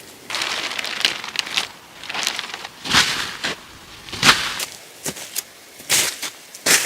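Irregular crunching and rustling from something being handled or crushed, in short uneven bursts with a few sharper, louder crunches.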